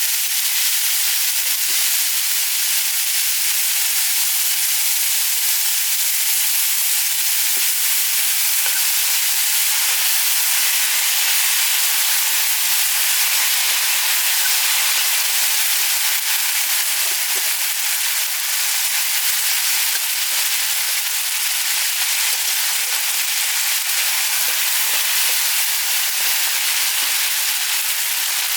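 Food sizzling in a frying pan: a steady, even hiss with a few faint ticks.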